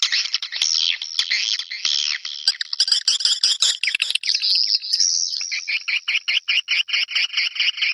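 Swiftlet calls from a lure recording: dense, overlapping high twittering chirps. About five seconds in they settle into a rapid even train of short chirps, about six a second.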